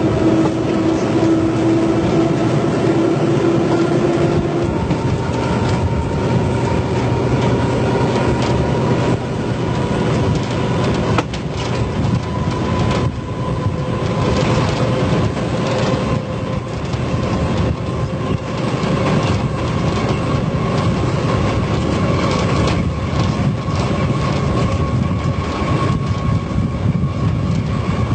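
Train running on rails with a steady drone and wheel noise, and a clickety-clack over the rail joints. A steady tone fades about five seconds in, and a higher tone rises slowly as it goes on.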